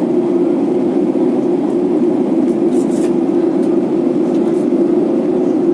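Steady cabin noise of an airliner in flight: the engines and the air rushing past, heard from inside the cabin as an even, low hum.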